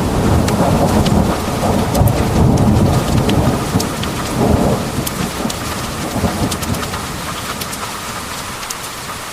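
Heavy rain pouring down, with many sharp drops ticking, while thunder rumbles. The rumble swells several times in the first half and fades away during the second half.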